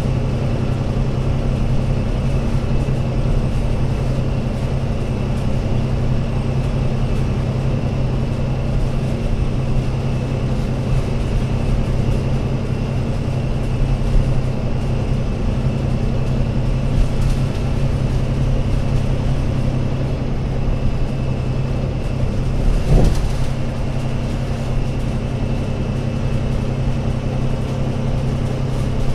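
Diesel engine of an Alexander Dennis Enviro500 MMC Euro 6 double-decker bus running at a steady speed, a constant low drone. A short knock about 23 seconds in.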